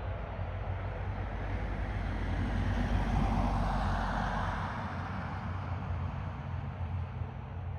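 A vehicle passing: its noise swells about three seconds in and fades again, over a steady low rumble.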